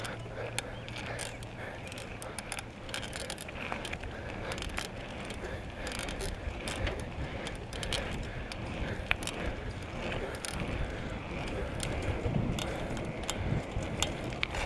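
Bicycle being ridden: irregular ticks and clicks from the chain and rear freewheel ratchet over a steady low rumble.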